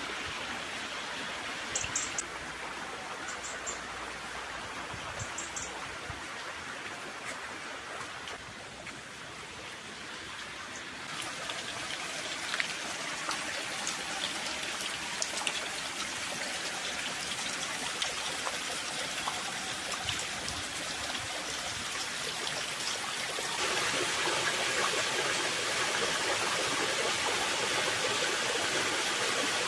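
Running stream water flowing steadily, a continuous rushing that grows louder about a third of the way in and again near the end.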